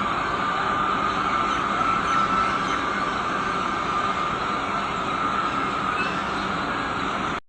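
Vande Bharat Express train running: a steady rumble and rush with a steady high whine over it, cutting off suddenly at the very end.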